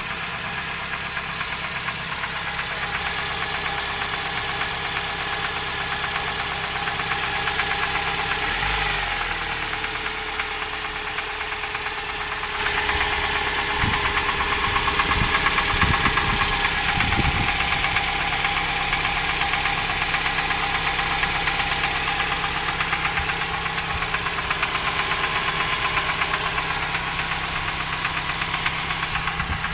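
Toyota 3S-FE four-cylinder engine running with a rapid, even knock from inside the engine. It gets louder about a third of the way in.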